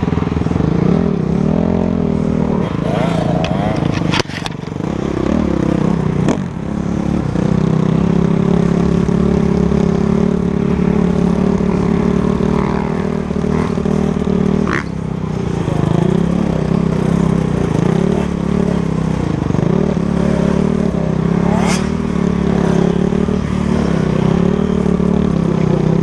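Motocross bike engine at racing speed, heard from a helmet-mounted camera. The engine note rises and falls with the throttle and drops briefly a few times, about four, six and fifteen seconds in.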